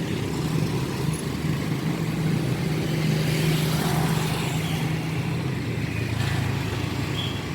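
Road traffic: cars and motorcycles running past in a steady stream, their engines making a low drone that swells a little midway.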